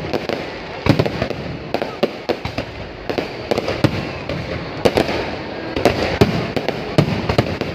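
Aerial fireworks display bursting overhead: a rapid, irregular string of sharp bangs and booms, several a second, over a continuous rumble of echoing explosions.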